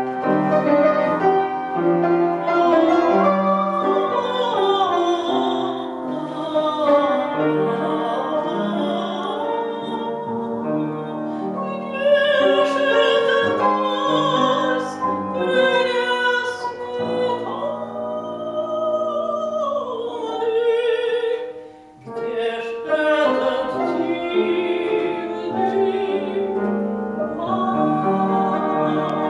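A woman sings a Russian romance in a classical, operatic style with piano accompaniment. Her held notes waver in pitch. The sound drops briefly about 22 seconds in, between phrases.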